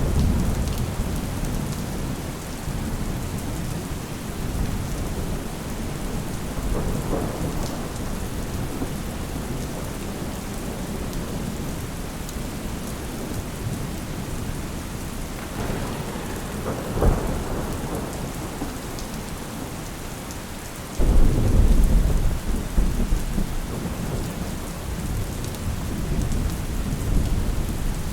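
Steady rain falling, with low rolls of thunder: a rumble at the start, a sharp crack past the middle, and a loud clap of thunder a few seconds later that rumbles on.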